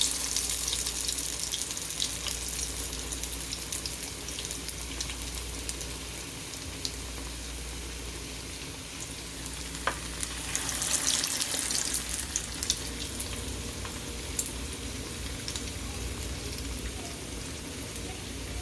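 Peyaju (lentil and onion fritters) deep-frying in hot oil, a steady crackling sizzle. The sizzle flares louder at the start and again about ten seconds in, as fresh pieces of batter go into the oil.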